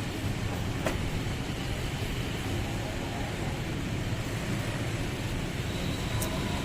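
Heavy truck engine running steadily, a low rumble, with a short click about a second in.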